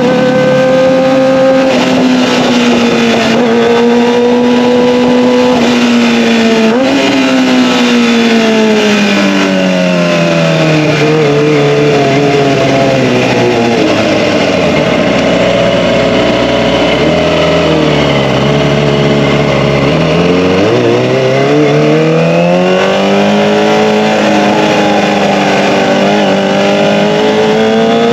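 Kawasaki ZX-25R's 249 cc inline-four engine through an Akrapovic Evolution exhaust, its pitch falling steadily as the revs drop, with a brief jump about a quarter of the way in. The revs stay low for a few seconds past the middle, then rise again smoothly toward the end as it accelerates.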